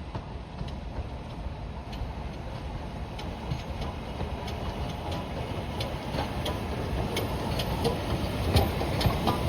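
Train approaching on the line, its rumbling running noise growing steadily louder, with sharp clicks from the wheels and track becoming more frequent near the end.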